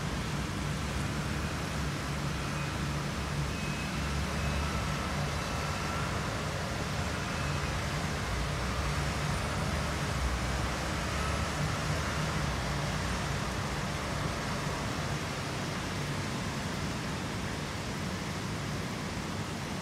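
Steady rain hiss over a low rumble of road traffic.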